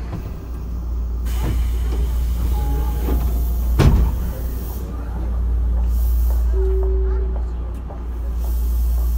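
Interior running sound of a Tobu 9050 series electric commuter train, heard inside motor car MoHa 9552: a steady low rumble of the train on the rails, swelling and easing, with one sharp knock about four seconds in.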